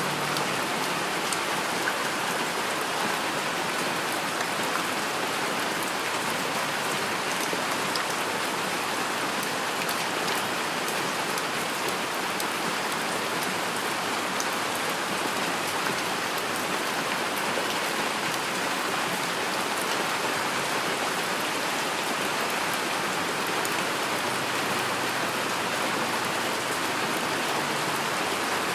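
Heavy rain falling steadily: a dense, even hiss of rain on a surface, with scattered sharper drop taps.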